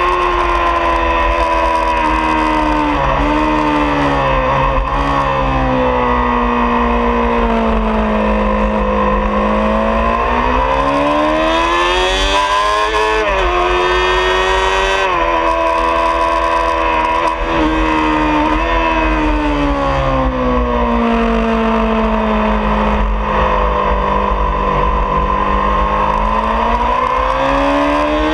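2003 Honda CBR600RR's inline-four engine at full race pace on the track, heard from onboard. The engine note falls over several seconds in small steps as the bike slows for a corner, then climbs again under hard acceleration; this happens twice.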